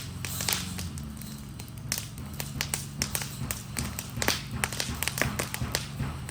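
Fire burning an Adirondack chair, crackling with irregular sharp pops and snaps several times a second over a low steady rumble.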